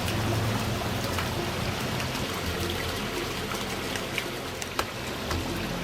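Steady trickling, running water with a low hum underneath and a few faint clicks near the end.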